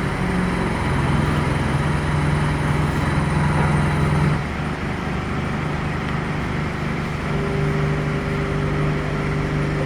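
Engine of a heavy machine running steadily. Its note shifts and drops slightly about four seconds in, then holds steady again.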